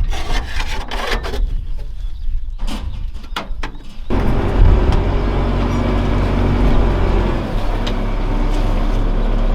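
Claas Scorpion 7030 telehandler's diesel engine catching suddenly about four seconds in and then running steadily, after a few clicks and knocks. A fuel-pump problem makes it a little hard to start.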